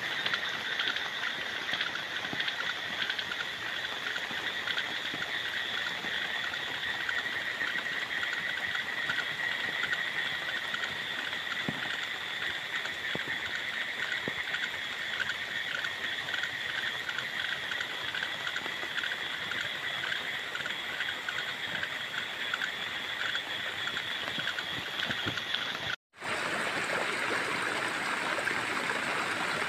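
Steady rain falling, an even hiss. About 26 s in it cuts to muddy rainwater runoff running in a shallow channel through grass.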